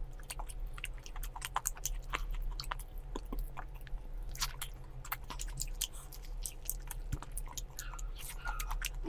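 A person chewing and biting food close to the microphone: irregular wet clicks and crunches, with a steady low hum underneath.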